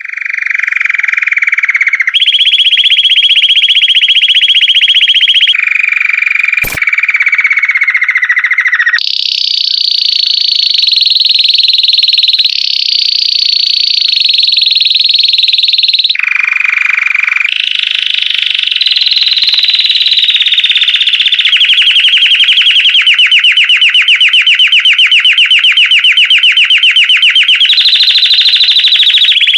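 Belgian canary singing a continuous song of fast trills, each rolled on one pitch for two to four seconds before switching to a higher or lower one. A single sharp click about seven seconds in.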